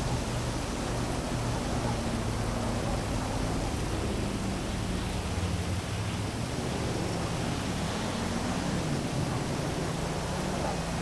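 Heavy rain falling steadily over a city, with a low hum of distant traffic beneath it that drifts slowly in pitch.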